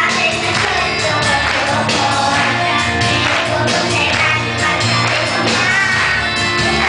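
Children's choir singing a gospel hymn over instrumental backing.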